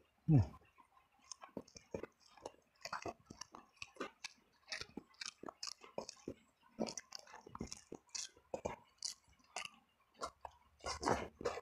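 Close-up chewing and biting of food, a run of irregular wet clicks and crunches, with a short low thump just after the start.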